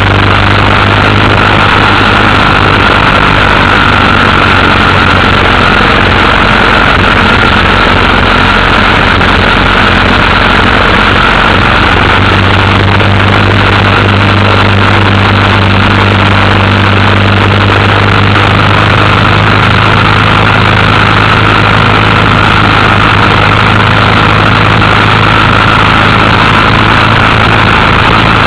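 Motorcycle engine running steadily at a constant speed while riding, loud and unchanging throughout.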